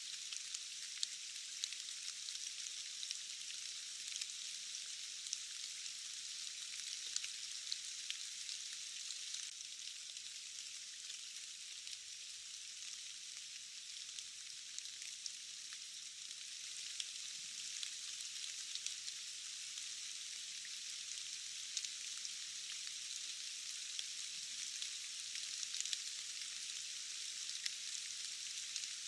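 Steady hiss of rain, thin and high with no low rumble, sprinkled with many small sharp drop ticks.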